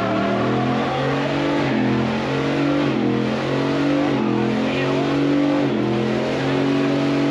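Truck engine held at high revs, its pitch holding steady and jumping slightly up and down every second or so.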